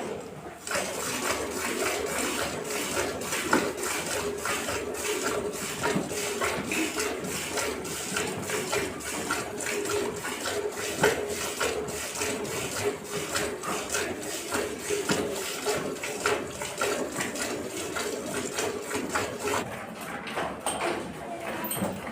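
Cow being milked by hand into a metal pail: jets of milk strike the pail in a steady, regular rhythm of squirts.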